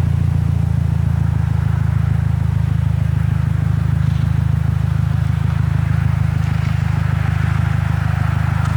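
Car engine idling: a steady low drone with a fine, even pulse and no change in level.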